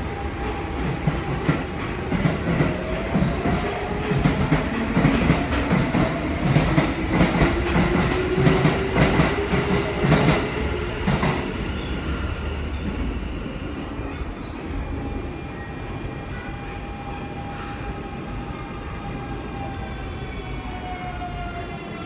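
Hanshin 5500 series electric train arriving and braking, its wheels clacking fast over rail joints and points while the traction motor hums in a gliding pitch. After about 12 s the clacking stops and the train runs quieter, with the motor tones falling in pitch near the end as it slows to a stop.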